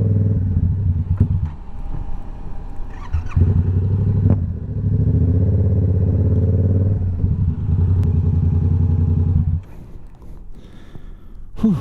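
Motorcycle engine running at a steady pitch. It eases off about a second and a half in, picks back up after about two seconds, then drops away sharply near the end.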